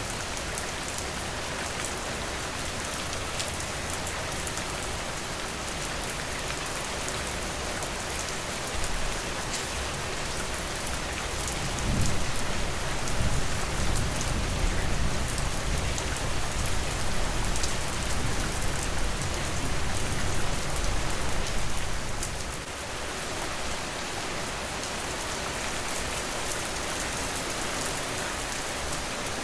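Steady rain falling on a porch, with a low rolling rumble of thunder that swells about twelve seconds in and dies away some ten seconds later.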